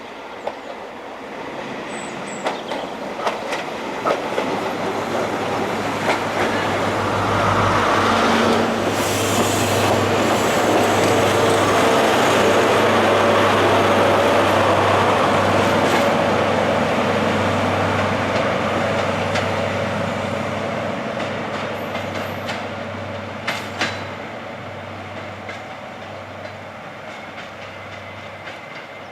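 A diesel train passing on the line: its engine hum and wheel noise grow louder to a peak about halfway through, then fade away, with a few sharp clicks from the wheels over the rails.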